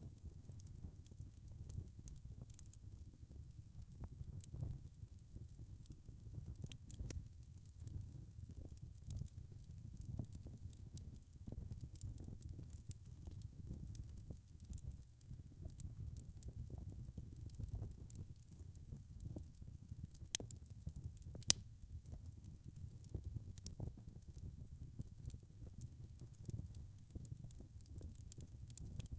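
Wood fire in a fireplace crackling: a soft low rumble of flames with irregular small snaps and pops, and two sharper pops just past the middle.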